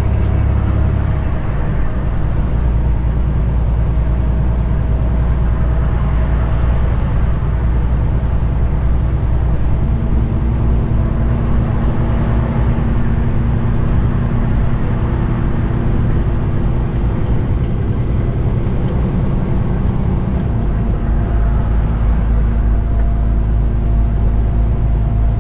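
Detroit DD15 diesel engine of a 2021 Western Star 4900 semi truck running steadily under load on the road, its note shifting about a second in, with a faint high whine that dips twice.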